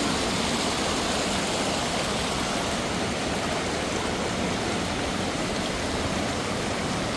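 Steady rush of mountain water cascading over rocks, an even noise that holds without a break.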